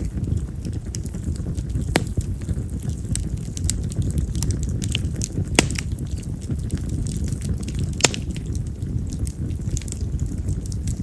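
Wild cherry (yamazakura) firewood burning in an open fire: scattered sharp pops and crackles over a steady low rumble, the loudest pops about two, five and a half and eight seconds in.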